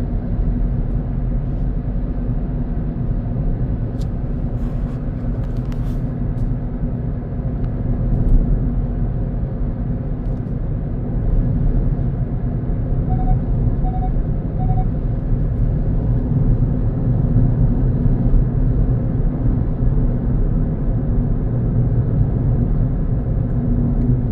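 A car driving, its steady engine and road rumble heard from inside the cabin. About halfway through, three short electronic beeps sound.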